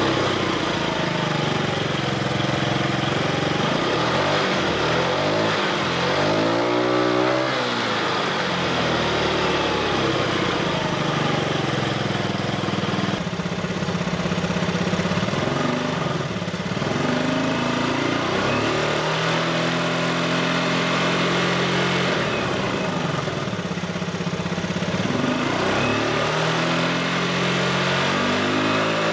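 Yamaha Vino 50 cc scooter engine running at idle, with several short throttle blips in which the engine note rises and falls back.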